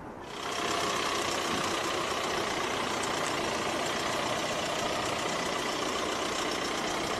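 An engine running steadily, coming in about half a second in and holding an even level.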